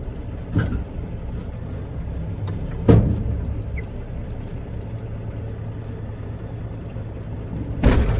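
Semi truck running down the road, heard from inside the cab: a steady low engine and road rumble, with a sharp knock about half a second in, a louder one just before three seconds, and another near the end.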